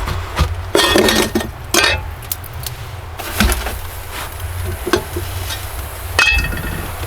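Dishes and utensils being handled: a series of knocks and clinks, one of them ringing briefly about six seconds in.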